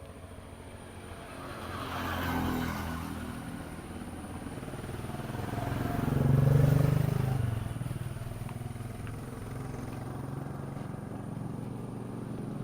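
Motor vehicle engine running, growing louder twice: briefly about two seconds in and most strongly around six to seven seconds in, then settling back to a steady hum.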